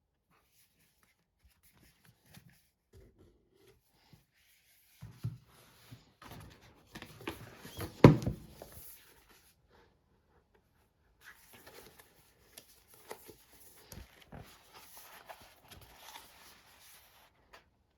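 Intermittent rustling and light knocks of things being handled, with one sharp knock about eight seconds in.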